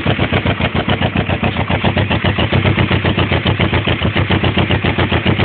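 Kawasaki Vulcan 500's parallel-twin engine idling through debaffled mufflers, a loud steady even pulse of about ten beats a second.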